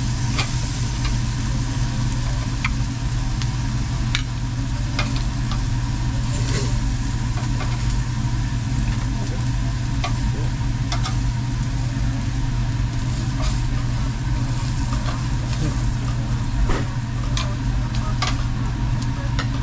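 Meat sizzling on a tabletop barbecue grill, a steady hiss with scattered crackles and clicks, over a steady low hum.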